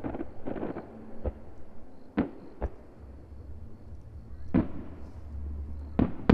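Aerial fireworks bursting: a short crackle, then five sharp bangs at uneven intervals, the loudest near the middle and near the end, over a steady low rumble.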